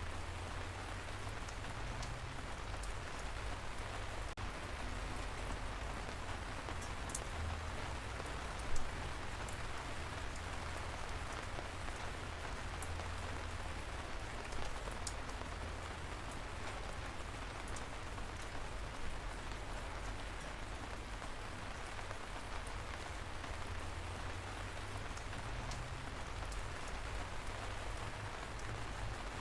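Light rain falling steadily, an even soft hiss with scattered sharper drops ticking nearby, one a little louder about a third of the way in.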